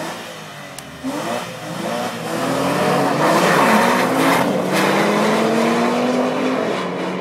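Sports cars accelerating flat out in a standing-start sprint, their engines revving up in rising sweeps that drop and climb again at each gear change. The sound grows louder to a peak about three to four seconds in, then slowly fades as the cars pull away.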